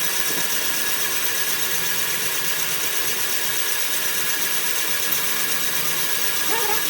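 Cylinder head facing machine running steadily, an even machining noise with a constant high whine.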